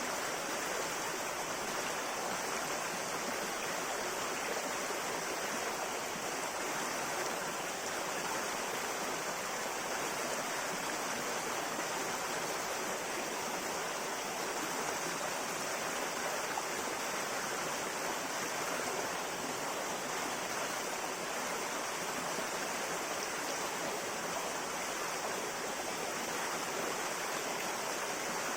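River water flowing over rocks: a steady, even rush that does not change.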